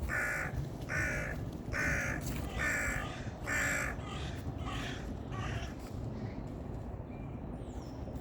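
A bird calling: a series of harsh calls about once a second, five loud ones followed by several fainter ones that die away about halfway through, over a steady low rumble.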